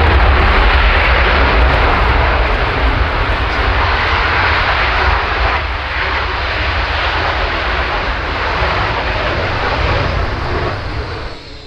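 Panavia Tornado's jet engines running loud with a deep rumble underneath, easing slightly partway through and fading away at the very end.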